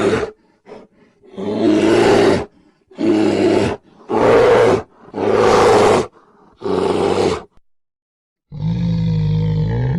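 A large animal roaring five times in a row, each roar rough and loud and lasting up to about a second. Near the end a different pitched animal call begins.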